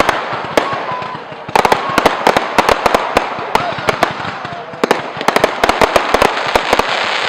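Fireworks going off: rapid volleys of sharp crackling bangs in clusters, busiest about a second and a half in and again from about five to seven seconds.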